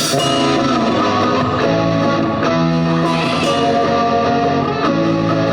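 Live rock band playing a guitar-led instrumental intro: electric guitar chords held and changing about once a second over a bass line.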